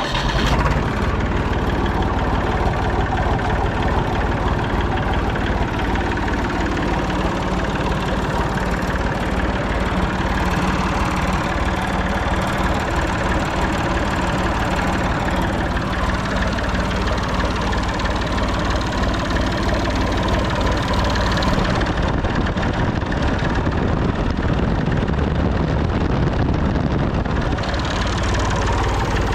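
Massey Ferguson 245 tractor's diesel engine idling steadily, just after being started.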